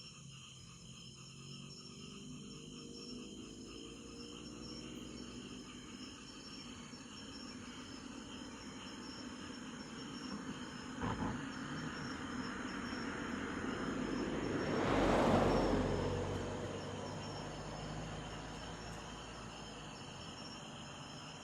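Crickets and other night insects chirring steadily, while a vehicle passes, swelling to its loudest about halfway through and fading away. A single knock comes shortly before the pass.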